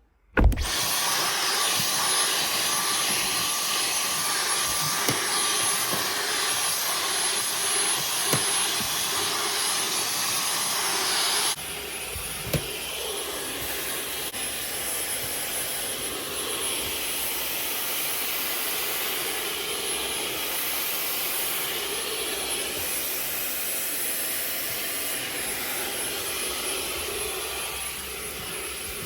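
Vacuum cleaner switched on and running steadily while cleaning a dirty car interior floor, with a thin high motor whine. About eleven seconds in the sound drops and turns duller, then runs on evenly.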